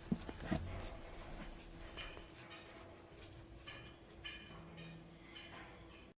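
Faint, scattered metallic clicks and light scraping of screws being turned in by hand on a metal pipe repair clamp.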